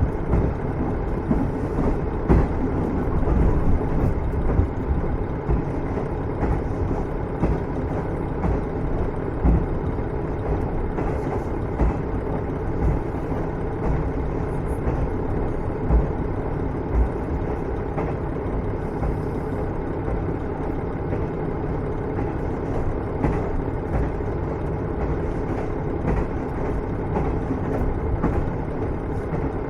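Running sound of a KiHa 110 series diesel railcar heard from inside the car: a steady diesel engine and wheels-on-rail rumble, with a few short knocks along the way.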